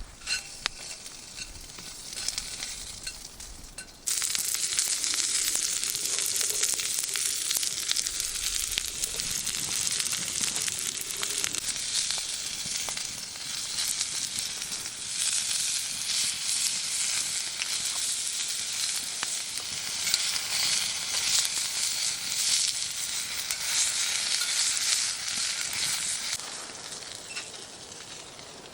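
Food frying in a hot pan, a steady sizzle that starts suddenly about four seconds in and fades near the end. A few quiet clicks come before it.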